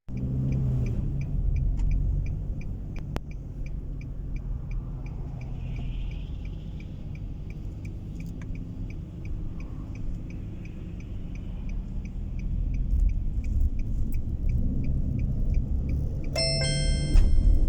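Steady low engine and road rumble inside a moving car's cabin, with a turn-signal indicator clicking steadily, about three ticks a second. Near the end a car navigation system's electronic chime sounds.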